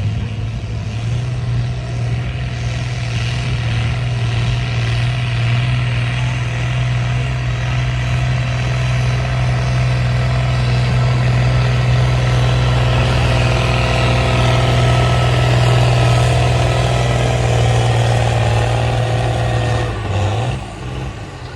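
Pulling tractor's engine running hard at high, steady revs under load, growing a little louder, then backing off sharply about twenty seconds in.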